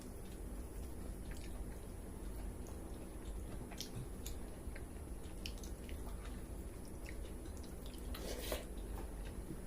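A person eating pakhala (rice soaked in water) with chicken curry: wet chewing and mouth sounds with scattered soft clicks, and a louder wet squelch about eight seconds in.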